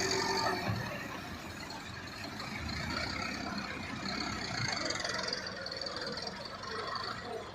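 Massey Ferguson tractor engine running steadily, easing off a little about a second in.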